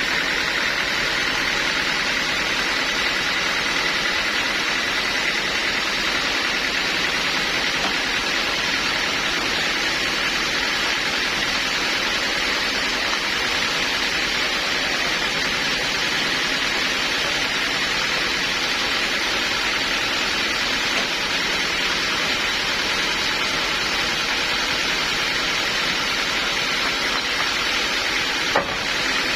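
Sawmill saw running steadily, a constant even noise with a faint high steady tone.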